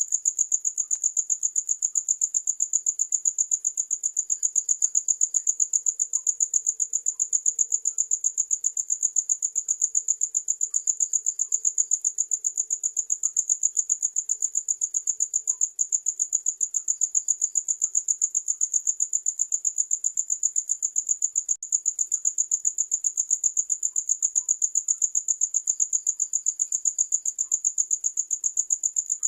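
Cricket chirping in a high-pitched, quick, even pulse that never lets up, with fainter chirps behind it.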